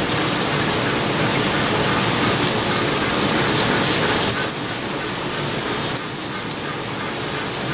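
Bone-in pork chops frying on a hot griddle top: a steady sizzling hiss.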